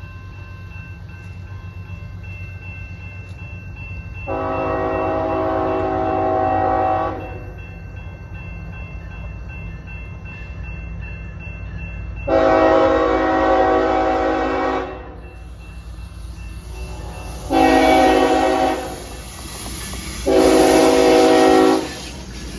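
Locomotive air horn sounding the grade-crossing signal: two long blasts, a short one and a final long one, each a chord of several tones. A steady low rumble of the train runs underneath.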